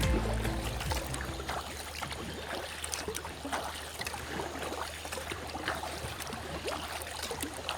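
Water splashing and dripping around kayaks as paddles dip in, many small irregular splashes.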